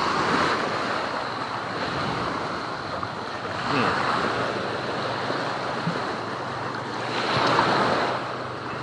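Ocean surf washing in, a steady rush of water that swells louder about three times as waves break and run in.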